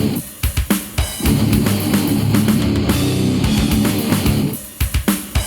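Death metal band playing an instrumental stretch: distorted guitar riff with drums. Twice the band stops short, once just after the start and once near the end, with a few sharp drum hits in each break.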